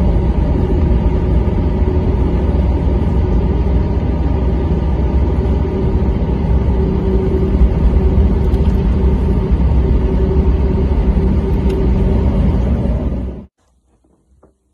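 Steady low rumble of a car being driven, engine and road noise with a faint steady hum over it, cutting off suddenly near the end.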